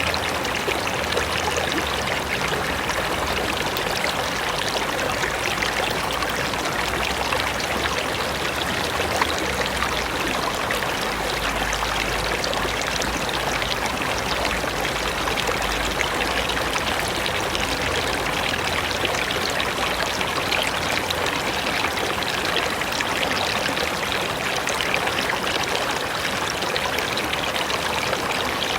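River water rushing steadily over rocks, an even, unbroken rush of flowing water.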